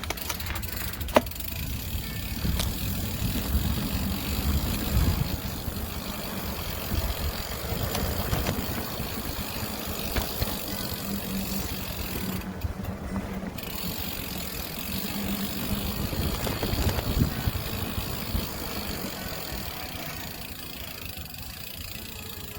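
Riding noise on a moving bicycle: a steady rumble with road and traffic noise, and a sharp click about a second in.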